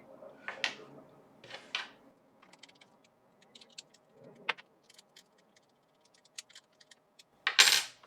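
Light metallic clicks and rattles of a Dremel rotary tool's bit and collet being handled while the bit is swapped. A short, loud burst of hissy noise comes near the end.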